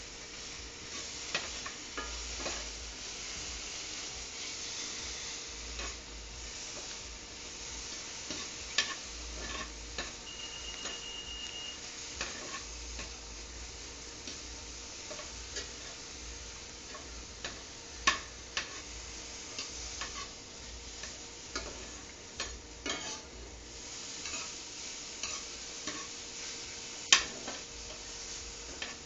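Food sizzling in a pan on a hot stove, with scattered sharp clinks of a utensil against cookware, two of them standing out. A short, steady high tone sounds about ten seconds in.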